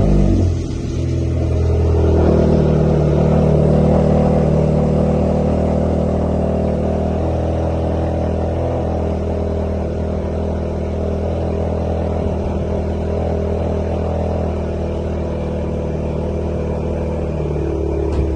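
Straight-piped exhaust of a Seat Leon 1.2 just after a cold start. The engine catches right at the beginning, then runs at a loud, steady fast idle that eases down slightly over the following seconds.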